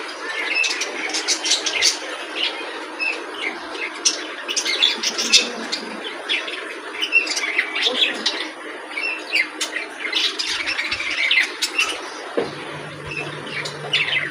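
Budgerigar chirping and squawking in quick, irregular short calls. A low steady hum comes in near the end.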